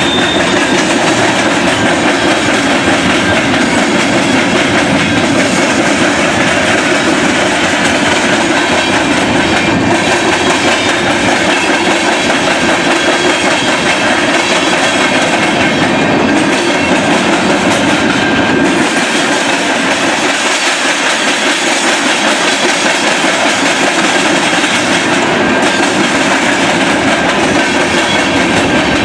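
Freight train cars rolling past close by: a steady, loud rumble of steel wheels on rail with the clickety-clack of wheels over rail joints.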